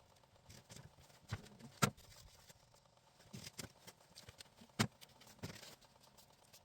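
Scattered sharp knocks and clicks from hands-on siding work, with two louder knocks about two and five seconds in.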